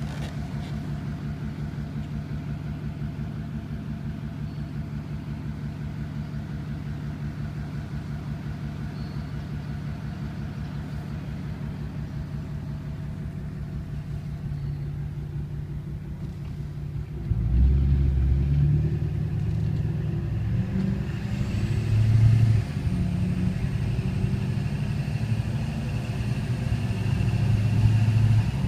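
A motor vehicle engine running with a steady low hum. About 17 seconds in it gets suddenly louder and rougher, as if pulling away or working harder.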